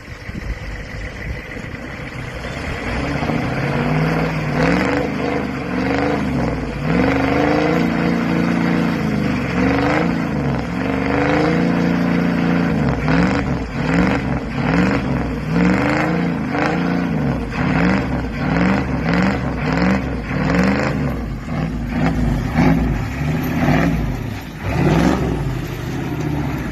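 Motor vehicle engine revved over and over, its pitch climbing and falling back roughly once a second, building up in loudness over the first few seconds.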